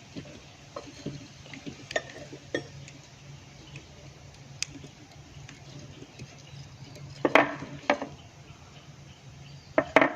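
Small metal parts and tools clinking and knocking during hand work on a small-engine carburetor: scattered light clicks, with a louder cluster of knocks about seven seconds in and another near the end, over a faint steady low hum.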